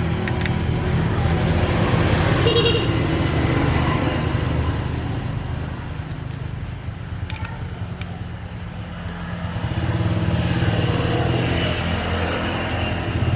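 Kubota truck engine running steadily, easing off about six seconds in and picking up again about ten seconds in.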